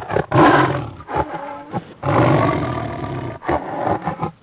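Loud recorded big-cat roaring and growling in rough, drawn-out calls, the two longest each lasting about a second or more; the sound is presented as a cheetah's.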